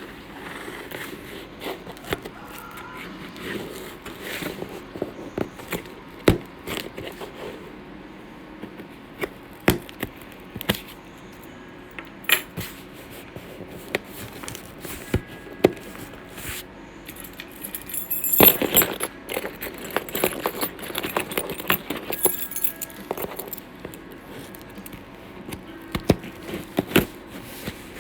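Irregular clicks, knocks and light rattling, as of small hard objects being handled, with a louder burst of clatter about two-thirds of the way through.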